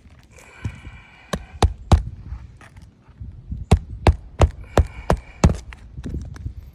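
Nails being hammered into a replacement three-tab asphalt shingle: two runs of sharp blows, about four and then about six.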